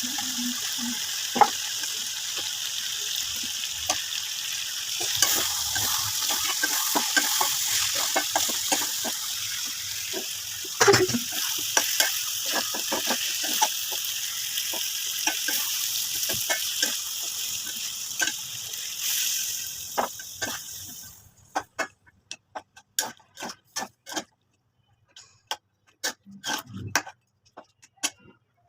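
Chicken frying in a pan, a steady sizzle, with a spatula clicking and scraping against the pan as it is stirred. About three-quarters of the way through the sizzle stops, leaving scattered clicks and taps.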